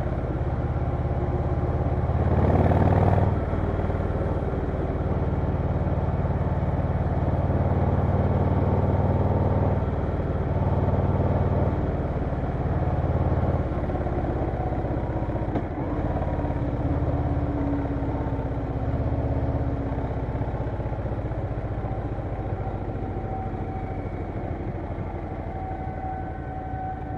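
Harley-Davidson Low Rider S V-twin engine running while the bike is ridden, its exhaust note swelling and easing with the throttle every few seconds. There is a louder rush of noise about three seconds in. Near the end the engine eases off and a faint steady tone comes in.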